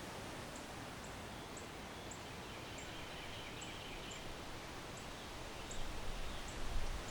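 Backyard ambience: a steady outdoor hiss, with a short high chirp repeating about twice a second and faint bird twittering midway. Low wind rumble picks up near the end.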